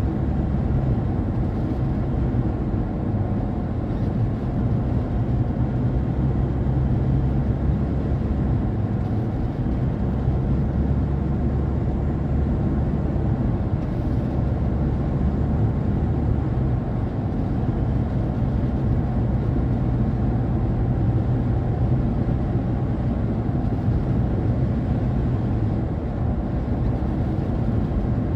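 Car driving along a road: a steady low rumble of road and wind noise that holds an even level throughout.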